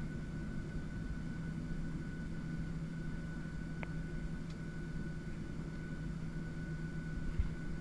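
Steady low drone of a Boeing 737-700 and its CFM56 jet engines heard from on board, with a thin steady whine above the rumble and a couple of faint ticks near the middle.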